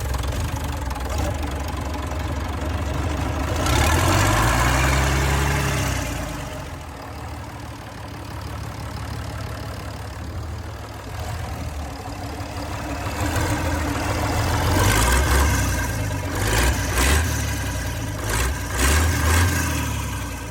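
Nissan PE6 inline-six diesel engine running with a diesel knock. It is revved up and back down about four seconds in, then given several quick blips of the throttle near the end.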